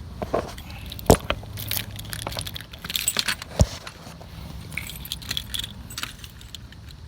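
A key ring jangling while a key is worked in a semi-truck's door lock, with two sharp metallic clicks, about one and three and a half seconds in.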